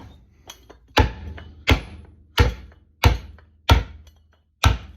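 Pickaxe striking a 2x10 board again and again to split it along the grain: six sharp wooden knocks, about two-thirds of a second apart.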